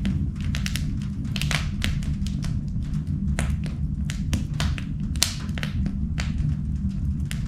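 Wood fire burning in an indoor fireplace, crackling and popping irregularly several times a second over a steady low rumble.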